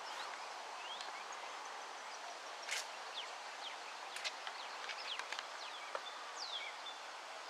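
Small birds chirping over a steady outdoor background hiss: many short, quick chirps, most sliding down in pitch.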